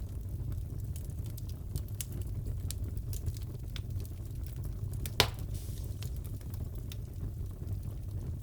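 Wood fire crackling in a fireplace: a steady low rumble with scattered small crackles and one sharp pop about five seconds in.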